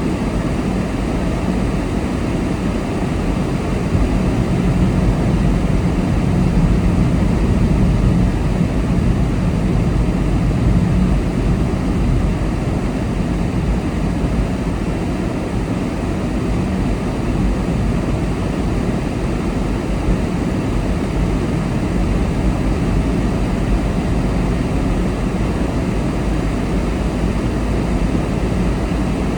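Steady road noise and engine rumble of a car being driven, a low, even rumble that swells slightly for several seconds a few seconds in.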